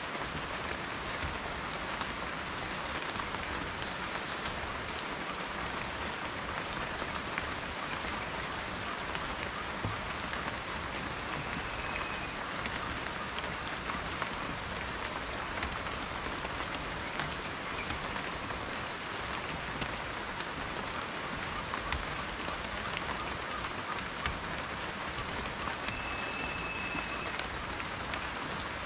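Steady rain falling on a surface: an even hiss thick with many small, sharp drop ticks.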